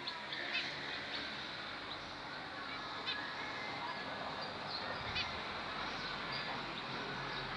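A flock of kept birds calling, with honking calls among many short, sharp chirps.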